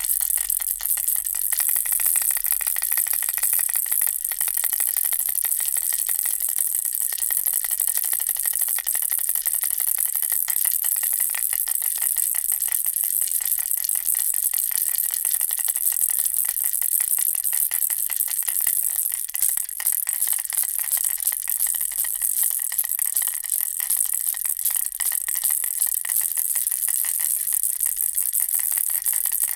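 Baby rattle shaped as a bear in a ball, shaken continuously in a dense, rapid, unbroken rattle.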